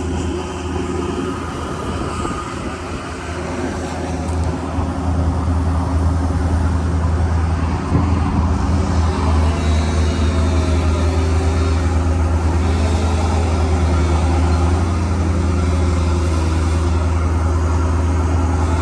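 Ford F550's 6.7L Power Stroke V8 turbo-diesel running with a steady low drone, getting louder over the first several seconds and then holding steady.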